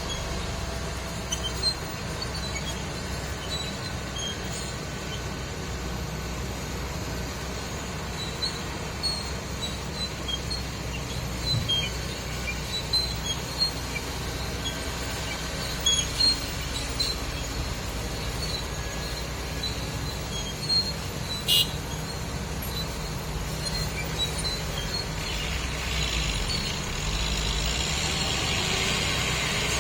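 Heavy truck engine running steadily with a low drone, with a few scattered clicks and knocks. A hissing noise builds near the end.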